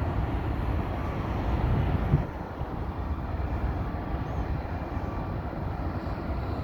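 Airbus A320's jet engines heard as a low distant rumble after takeoff, dropping in level about two seconds in and then holding steady.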